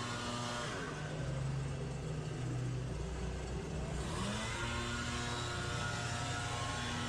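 Engine of outdoor power equipment running fast. It throttles down about a second in, holds lower, and revs back up about four seconds in.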